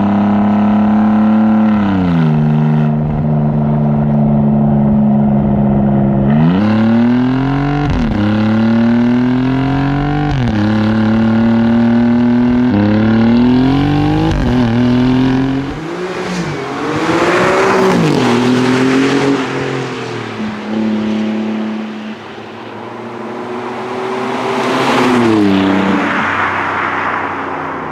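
Alfa Romeo Giulia GTA M's twin-turbo 2.9-litre V6 with Akrapovič titanium exhaust accelerating hard, heard from inside the cabin, the engine note climbing and dropping sharply at each upshift. In the second half the car is heard from the roadside, its note rising as it approaches and falling away as it passes.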